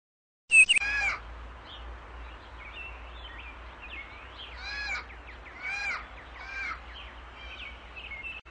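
Birds chirping as a morning sound effect, with a few louder, harsh descending calls about five, six and six and a half seconds in. It opens with a short high beep and a loud call just after half a second in.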